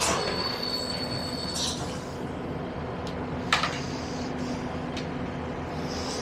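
Steady hum inside a diesel passenger train, with a thin high whine for about a second and a half at the start and a short sharp clatter about three and a half seconds in.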